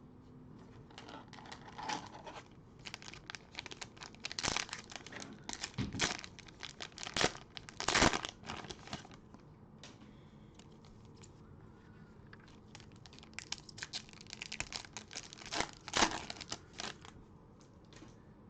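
Cellophane trading-card pack wrappers being torn open and crinkled, in two spells of irregular crinkling, loudest about eight and sixteen seconds in.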